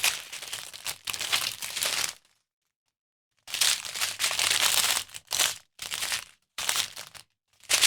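Small plastic packets of diamond-painting drills crinkling as they are handled and sorted through, in irregular rustling bursts, with a complete dropout of about a second partway through.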